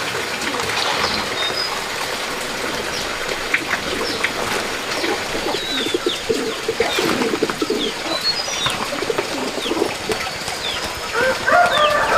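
Birds calling: many short high chirps throughout, with low cooing underneath in the middle, and a rooster starting to crow near the end.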